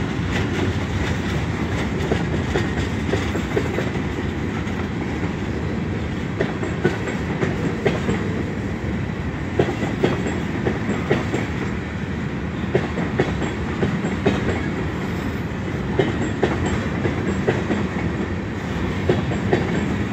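Pan Am Railways freight train's covered hopper cars rolling past: steady rumble of steel wheels on rail, with irregular clicks and knocks as the wheels cross rail joints.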